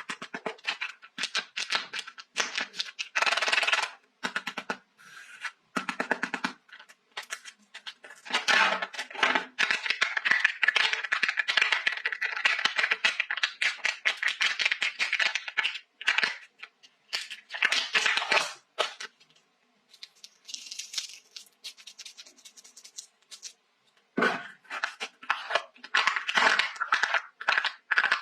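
Packaging being unwrapped by hand: crinkling and tearing of wrappers in irregular bursts with short pauses.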